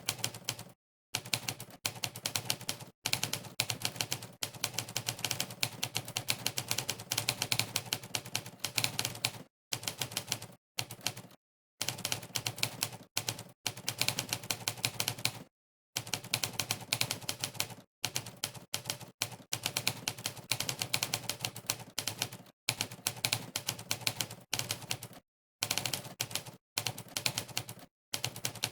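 Typewriter keystroke sound effect, triggered by each keypress in a typing-test program set to its typewriter key sound. It makes runs of rapid clacks, broken every few seconds by short gaps of dead silence.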